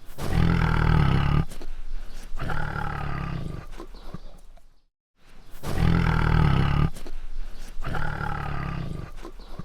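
A large animal's deep call, made in two parts, a loud first part about a second long and a slightly quieter second part. After a short silence about halfway through, the same two-part call comes again.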